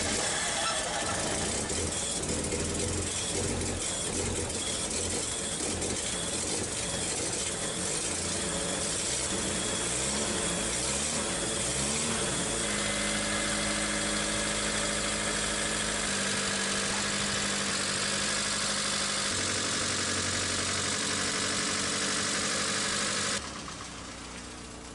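1999 Mitsubishi Mirage's 1.5-litre 4G15 four-cylinder running just after a hard start on starting fuel, its engine bay still wet from washing. For the first dozen seconds the revs rise and fall unevenly as the throttle is worked, then the engine settles to a steadier idle whose pitch steps down a couple of times. Near the end the sound drops abruptly to a much quieter level.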